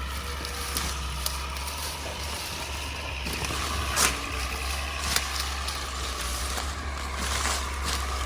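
Heavy land-clearing equipment running with a steady engine drone. A whining tone joins about three seconds in, and a few sharp knocks sound along the way.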